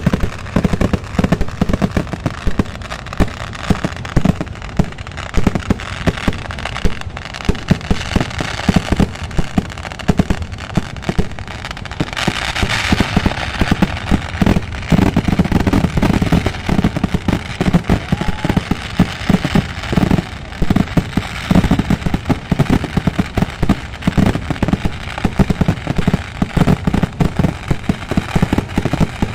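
Fireworks going off in a dense, continuous barrage of rapid bangs, with a stretch of brighter crackling about twelve seconds in.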